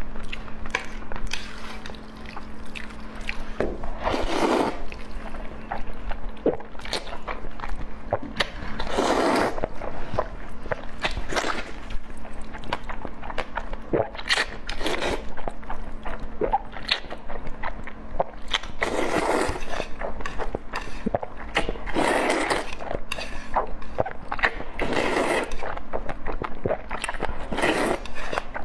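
Close-miked eating: chewing and biting with many wet mouth clicks, and longer noisy swells every few seconds, over a faint steady hum.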